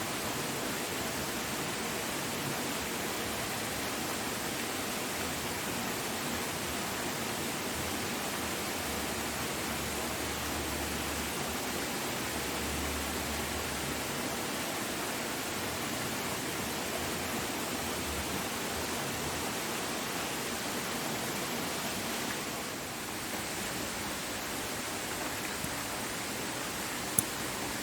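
Steady rushing of a waterfall, an even wash of falling water. A single sharp click sounds near the end.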